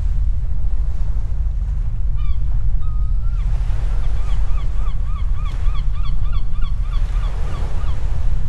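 Steady wind and surf rumble with a bird calling over it: a run of short, quickly repeated calls, about four a second, starting about two seconds in and stopping near the end.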